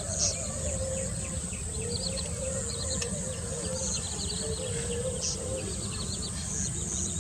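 Natural wetland ambience: insects droning steadily, high-pitched, with many short bird chirps scattered throughout.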